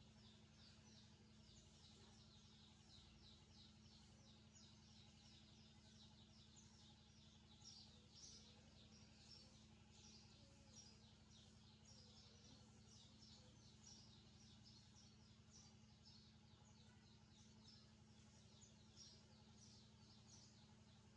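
Small birds chirping faintly and constantly, many short high chirps in quick succession, over a steady low hum.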